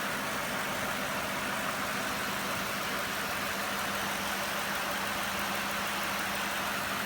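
2002 Cadillac DeVille's Northstar V8 idling steadily with its accessory belt cut off, so the power steering pump that had been making noise is no longer turning.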